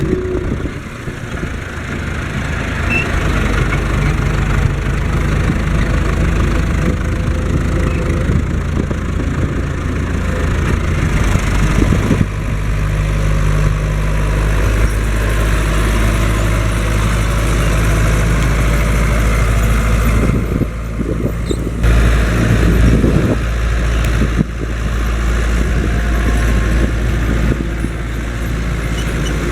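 Fendt Farmer 106 S tractor's four-cylinder diesel engine running steadily, its note shifting a few times, with a brief dip in level about twenty seconds in.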